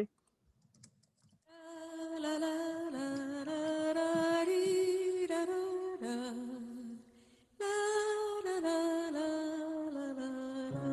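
An Israeli folk-dance song recording starting about a second and a half in, opening with a wordless hummed vocal line of long held notes. It breaks off briefly about seven seconds in, then carries on.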